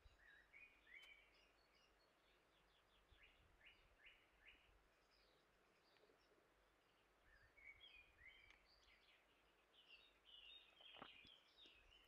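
Faint songbird twittering: scattered runs of short high chirps, with a single soft click near the end.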